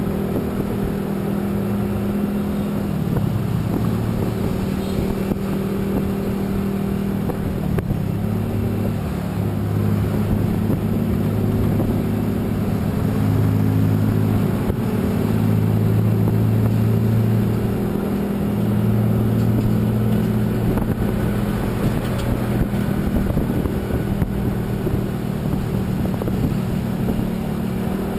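Motor vehicle running on the road: a continuous engine hum with road noise, its pitch shifting up and down a few times as the speed changes.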